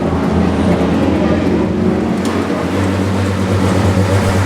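NASCAR stock car's V8 engine running steadily at low, even revs.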